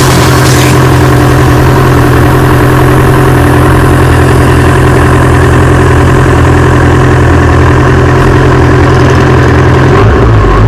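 Motorcycle engine running at a steady speed under a constant rush of noise. The engine note drops slightly near the end.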